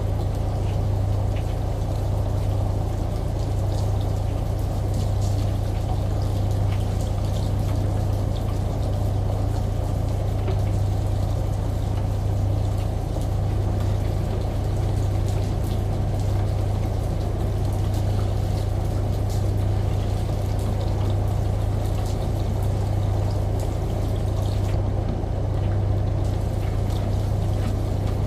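Steady running water with scattered drop ticks over the constant low hum of a washing machine, a layered rain, shower and washing-machine ambience.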